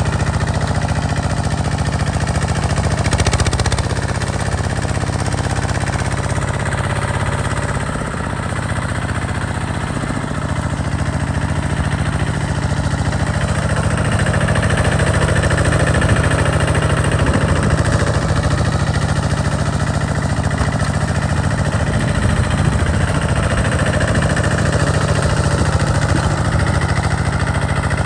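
Tractor engine running steadily under load while the tractor plows a field, with a brief change in its note about eight seconds in.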